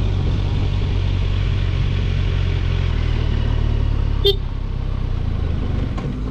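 Kawasaki Ninja 1000SX's inline-four engine running under way, with road and wind noise; the engine note drops about three seconds in. A short sharp click comes just after four seconds.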